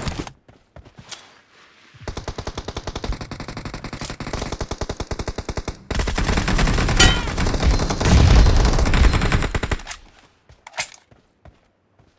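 Rapid automatic gunfire from a video game shooter: a steady stream of shots starting about two seconds in, then louder, heavier firing for about four seconds before it dies away near the end.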